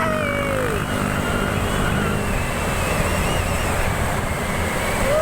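Truck engine running steadily. In the first second a long pitched tone falls away and ends.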